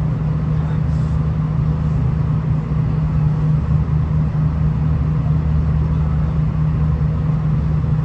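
V/Line VLocity diesel multiple unit under way: a steady low engine drone with an even rumble from the running gear.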